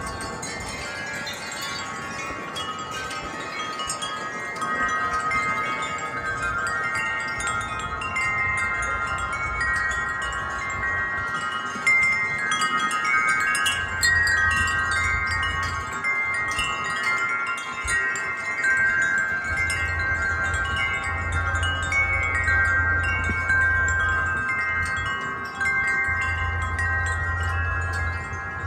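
Wind chimes ringing steadily in gusty wind, many struck tones overlapping and sustaining. A low wind rumble on the microphone comes and goes in the second half.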